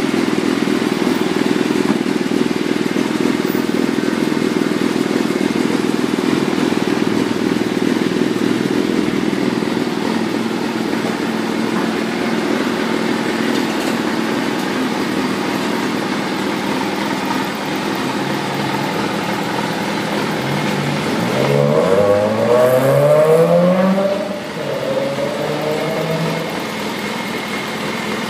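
Kawasaki ZRX400-II's 400 cc inline-four idling steadily through a carbon aftermarket muffler. About three-quarters of the way in it is revved in a few quick throttle blips, then settles back to idle with one smaller blip.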